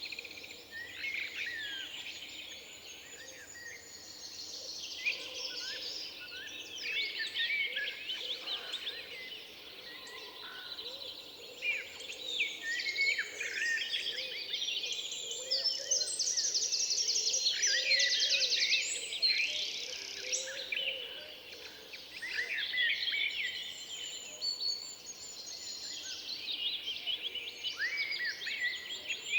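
Several songbirds singing at once in woodland, their songs and chirps overlapping, with a fast, high trill for a few seconds around the middle.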